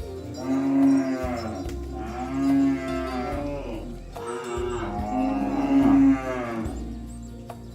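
Cattle mooing: two long, drawn-out moos, the second beginning about four seconds in.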